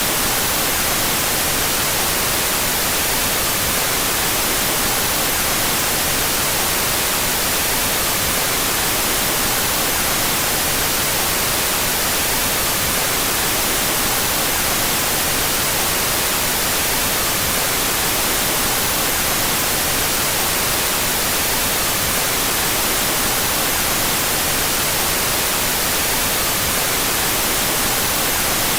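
Steady electronic white noise, played with its stereo channels out of phase, unchanging in level.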